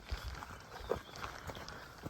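Footsteps of a person walking on a trail, a loose run of short, uneven steps over a low rumble.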